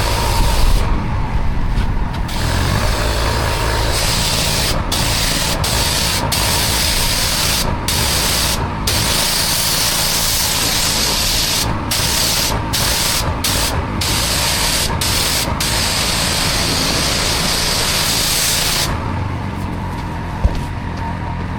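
Pressure washer spraying water onto block paving: a steady hiss over the machine's running engine. The spray cuts out briefly many times and stops near the end, while the engine keeps running. A single short knock comes just before the end.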